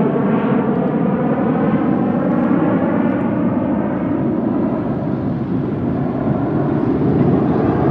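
Military jet aircraft flying past, a loud steady jet roar with faint tones that slowly fall in pitch as it passes.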